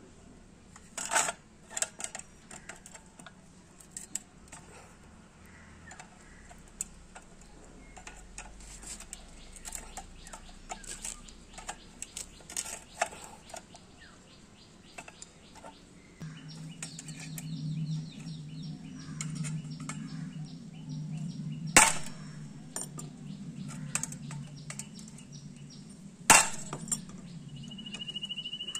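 Metal parts and hand tools clicking and clinking as a microwave oven magnetron is taken apart. About halfway through, a low steady hum with fine ticking starts, and two sharp, loud knocks come near the end.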